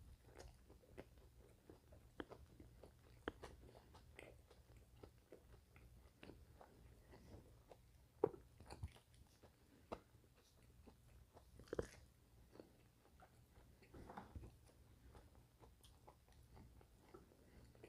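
Quiet chewing and mouth sounds close to the microphone: sparse soft clicks and smacks, with two louder ones about eight and twelve seconds in.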